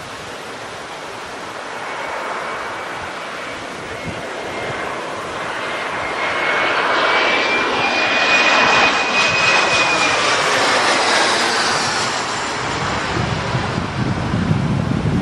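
Jet airliner passing low overhead on final approach, its engine noise swelling to a peak about eight to eleven seconds in and then fading. A high engine whine rises slightly and then drops as it passes over.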